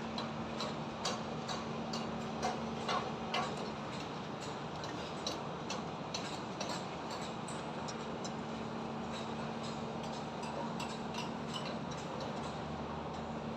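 Construction work from a building site: irregular sharp taps and knocks, several a second in the first few seconds and sparser after, over a steady low hum and the constant noise of highway traffic.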